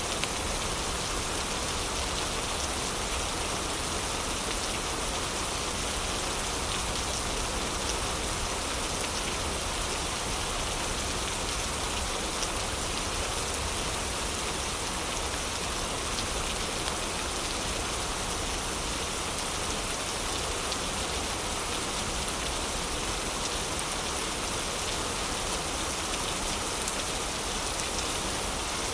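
Heavy rain falling steadily, a dense even hiss, with the occasional faint crackle of a fireplace.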